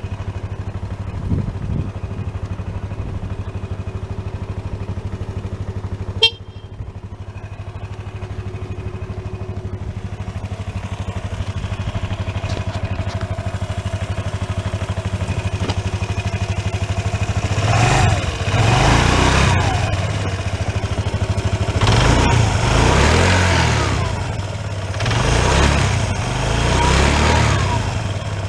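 Piaggio Vespa ET4 125 scooter's single-cylinder four-stroke engine idling steadily, with one sharp click about six seconds in. From about eighteen seconds in it revs up and falls back again four times.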